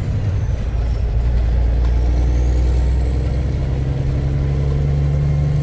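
Kenworth K100 cabover truck's diesel engine running steadily, heard from inside the cab.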